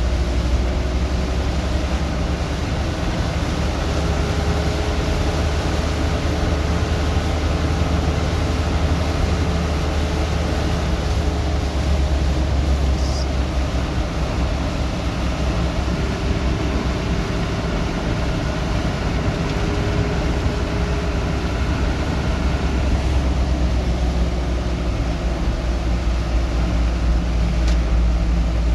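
Heavy rain falling steadily over a deep, continuous low rumble.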